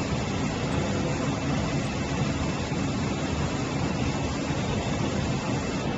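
Steady factory machinery noise, a constant even rush with a faint steady hum under it.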